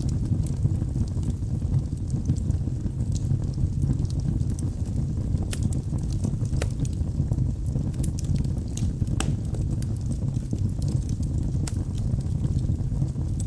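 Wood fire burning in a fireplace: a steady low roar of flame with scattered sharp crackles and pops of burning logs.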